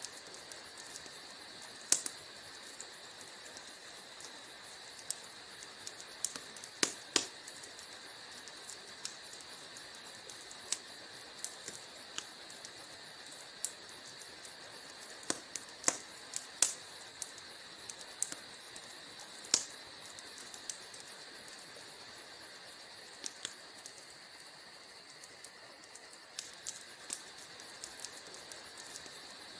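Wood fire in a fireplace crackling, with irregular sharp pops, some much louder than the rest, over a steady soft hiss.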